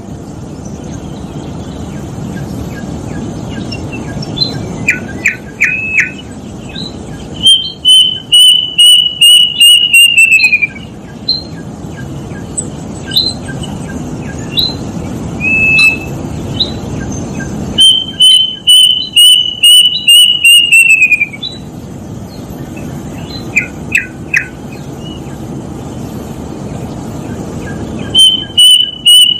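Kedasih cuckoo calling: three runs of a dozen or so quick, clear whistled notes, level in pitch and then falling away at the end, the runs about ten seconds apart. Short chirps and a steady background hiss fill the gaps between runs.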